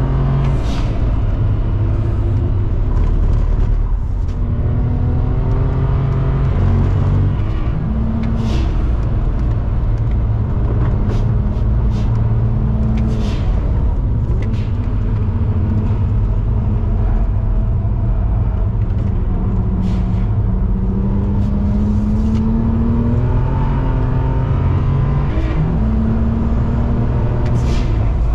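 Turbocharged BMW E92 straight-six engine heard from inside the cabin under hard driving, the revs climbing and dropping again and again as it works through the gears. Several brief sharp noises cut through it along the way.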